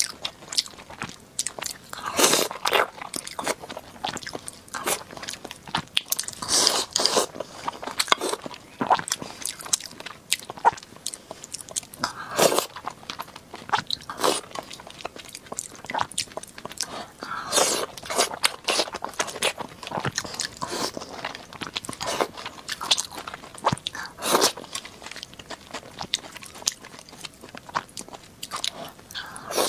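Close-miked chewing and biting of a person eating steamed fatty pork with rice: irregular mouth smacks and clicks, with a louder bite every second or two.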